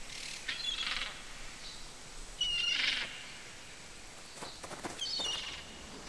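Bird calls in a forest ambience: three short calls about two seconds apart, the middle one the loudest.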